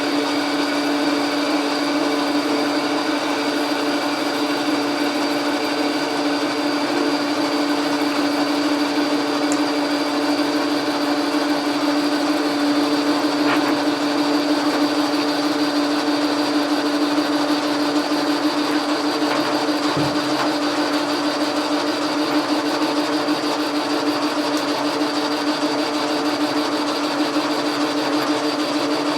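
Logan metal lathe running steadily, its motor and drive giving an even, unchanging pitched hum.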